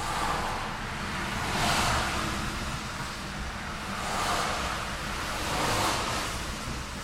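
Road traffic: cars passing one after another, each a swell of tyre and engine noise, four in the space of about six seconds, over a steady low rumble of traffic.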